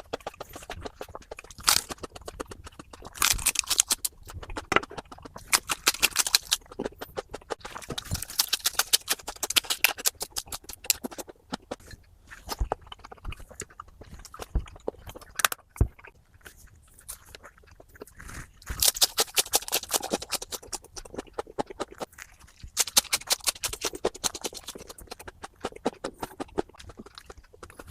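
Close-up crunching of crisp raw green vegetables being bitten and chewed, in runs of rapid crunches with short pauses between.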